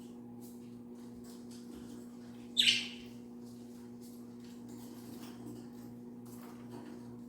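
A budgie gives one short, loud, high chirp about two and a half seconds in, over a steady low electrical hum and faint soft ticks.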